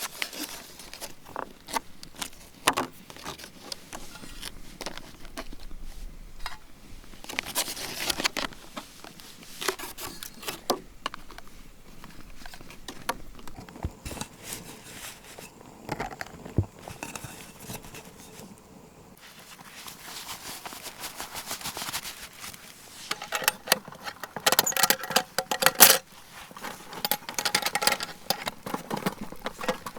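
Irregular rustling, clicks and light clinks of things being handled, quieter for a few seconds in the middle and busier near the end.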